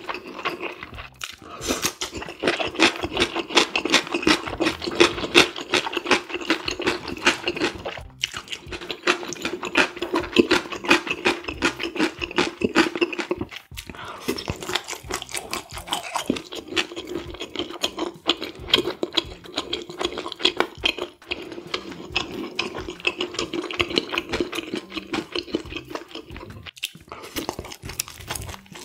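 Close-miked chewing of spicy stir-fried squid and pork: a dense, continuous stream of wet mouth clicks and smacks as the chewy bites are worked.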